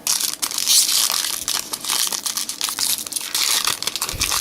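Foil trading-card pack wrapper crinkling as it is torn open, a dense run of crackles and sharp clicks that starts abruptly.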